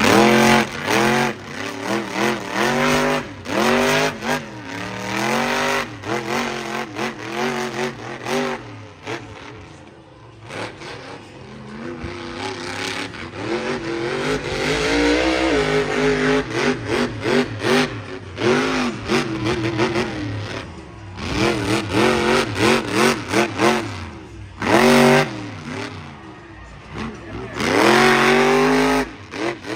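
Monster truck's big V8 engine revved hard again and again, its pitch climbing and falling with each burst of throttle. It eases off twice, about ten seconds in and again about three quarters of the way through.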